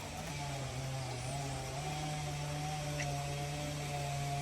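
Chainsaw engine running at a steady speed, its pitch shifting slightly a couple of times.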